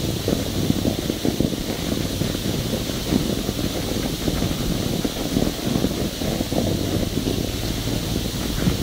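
Wind buffeting the microphone of a belly-mounted camera on a moving bicycle, a steady low rumble with rapid flutter and no let-up.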